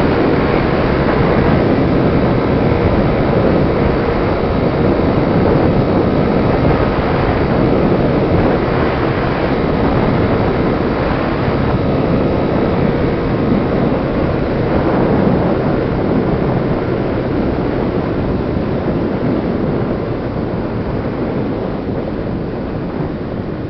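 Steady road and wind noise of a car driving at highway speed, with wind buffeting the microphone; it eases slightly near the end.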